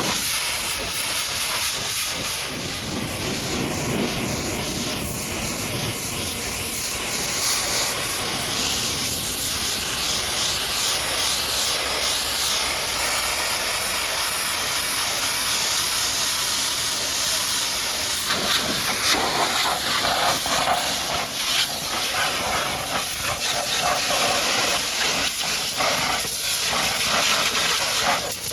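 High-pressure washer jet spraying water against a mud-caked truck: a steady, loud hiss of spray, turning more spattery from about two-thirds of the way in.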